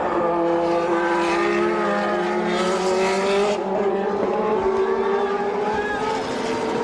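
A 1989 Formula One car's engine running at high revs, a steady high-pitched note that rises and dips slightly. A rush of hissing noise joins it for about a second near the middle.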